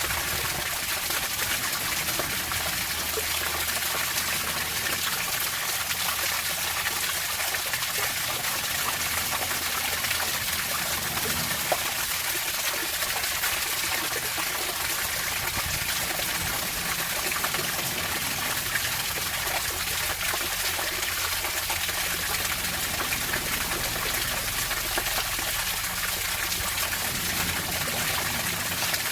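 Steady running water, splashing and trickling without pause.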